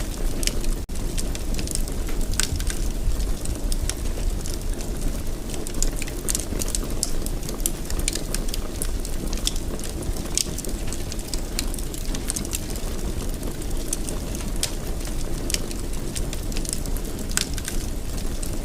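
Fire in a fireplace crackling, with irregular sharp pops over a steady low rumble of the flames. There is a momentary dropout about a second in.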